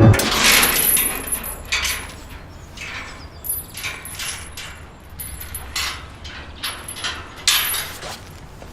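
Irregular footsteps swishing and rustling through wetland vegetation, a step about every half second to a second, the loudest near the start.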